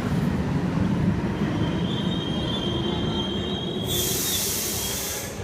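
Leonardo metro train running along the platform as it leaves the station, with a low rumble and high-pitched wheel squeal starting about a second and a half in. About four seconds in a loud high hiss joins, and the rumble fades toward the end.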